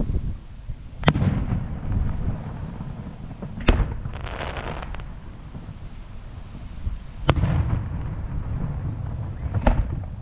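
Aerial firework shells bursting: four sharp booms a few seconds apart, each followed by a rolling echo. A crackling shower follows the second boom.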